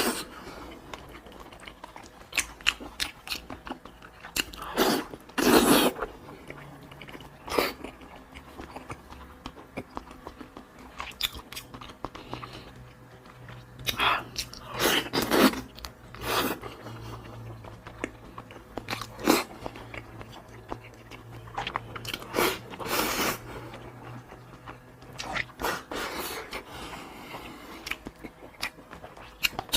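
A person biting and chewing food, with irregular crunches and louder smacking bursts every few seconds.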